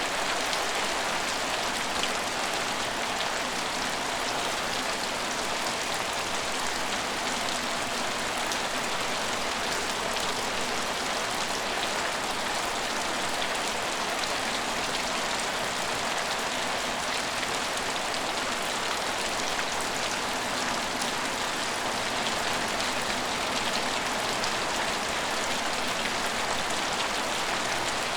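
Steady rain falling on surfaces at an empty station: a constant hiss of rain with many fine drop ticks and patters, unchanging throughout.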